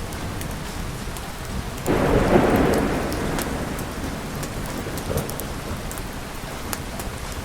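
Steady rain with scattered sharp drip ticks, and a clap of thunder about two seconds in that rumbles and fades over a second or so.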